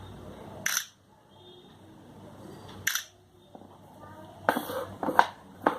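Shutter sound of the Lenovo K8 Plus camera app, taking two photos about two seconds apart, followed near the end by a quick run of clicks and knocks.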